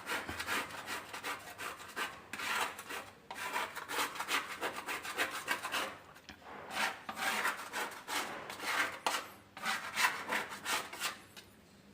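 Paint scraper scraping stripper-softened paint off a wall in repeated short strokes, with a brief pause about halfway; the paint is lifting off easily.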